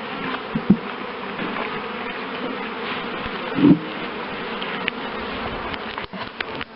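A colony of honeybees buzzing steadily around an open hive, swelling briefly louder about halfway through.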